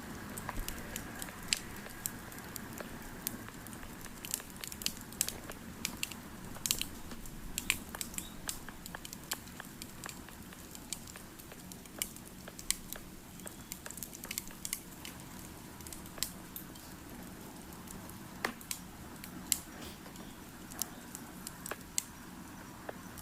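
Campfire crackling: irregular sharp pops and snaps, some louder than others, over a low steady hiss.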